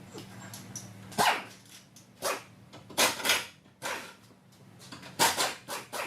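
A dog barking repeatedly, about eight short barks in irregular groups, over a steady low hum.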